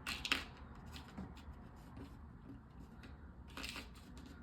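Plastic LEGO pieces clicking and rubbing as they are handled and pressed together: a cluster of sharp clicks at the start and another about three and a half seconds in, with faint ticks between.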